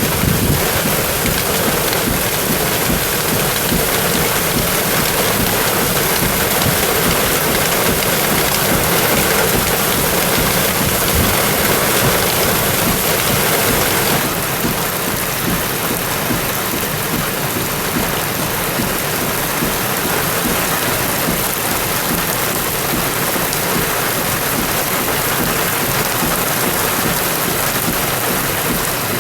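Heavy rain falling, a loud steady hiss, which drops a little in level about halfway through.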